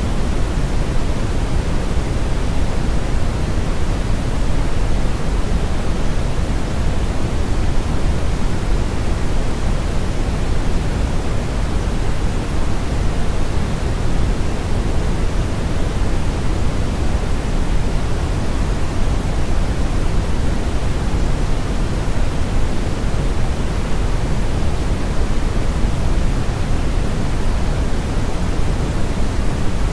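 Brown noise: a steady, even rushing hiss with most of its weight in the deep lows and the highs much reduced, without change.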